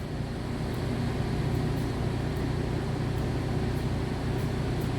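An engine idling: a steady low rumble with no change in speed.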